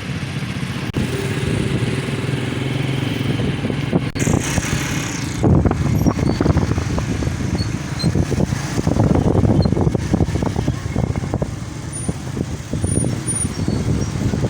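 Jet aircraft engine noise, a steady rumble that turns louder and rougher about five seconds in.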